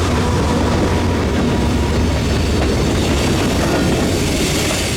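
Norfolk Southern manifest freight train passing close by: a loud, steady rumble of the rolling train that eases slightly near the end.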